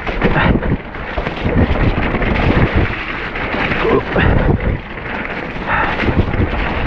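Heavy wind rumble on the helmet or bike camera's microphone while a mountain bike rides down a rough, wet trail, with a stream of knocks and rattles from the bike over the ground.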